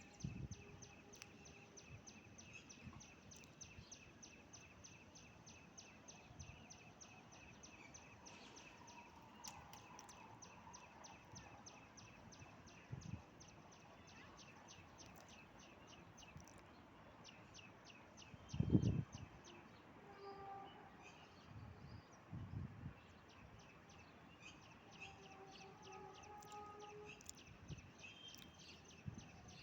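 Faint outdoor ambience: a rapid, even string of high ticks or chirps, with a few short tones later on and a brief low thud about two-thirds in.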